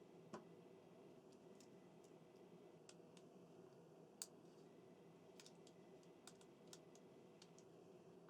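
Faint, scattered small clicks of the plastic parts of an N gauge model train being handled and slid apart, as the yellow side parts come off the underframe; the loudest click comes about four seconds in.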